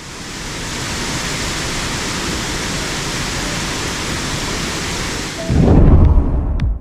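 Steady rushing noise of a waterfall, swelling up over the first second. About five and a half seconds in, a louder, deeper rumble surges in, then cuts off sharply.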